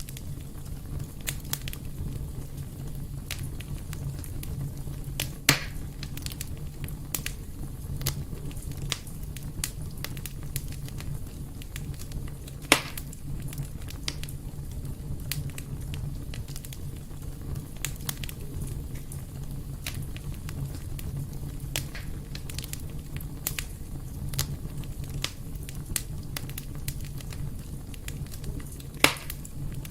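Fire burning in a fireplace, crackling steadily over a low rumble, with frequent small crackles and three louder pops: one about five seconds in, one midway, and one near the end.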